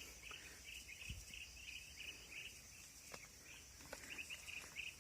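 Faint insects, likely crickets, chirping in a steady pulsing rhythm, with a few soft knocks.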